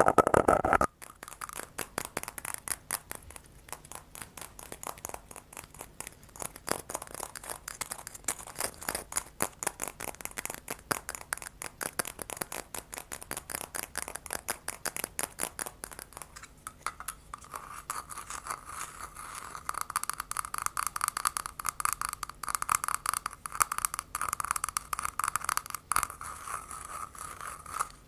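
Close-miked ASMR tapping and scratching: many quick, irregular taps and scrapes on a hard object. A louder burst comes in the first second, and about two-thirds through the taps take on a ringing edge.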